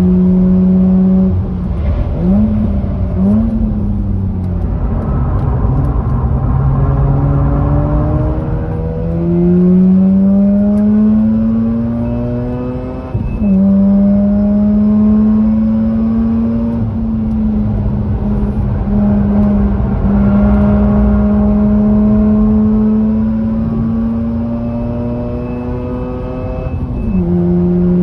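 Mazda RX-8's twin-rotor Wankel rotary engine, fitted with an aftermarket cat-back exhaust, being driven hard on a race track. Its note dips, with two quick rises and falls in pitch about two and three seconds in, then climbs steadily for several seconds, drops sharply at a gear change about halfway through, and holds a high steady note with a brief dip near the end.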